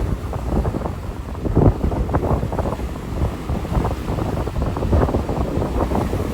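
Wind buffeting the microphone in gusts, over the wash of surf from a rough sea.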